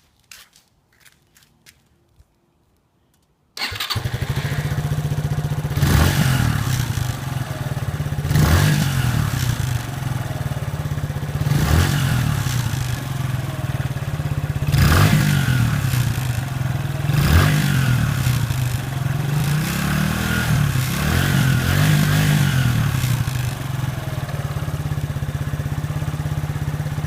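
SYM Wolf Classic 150's single-cylinder engine starting about three seconds in and idling through its exhaust. The throttle is blipped about six times, each a quick rise and fall in revs, with a longer wavering rev later on.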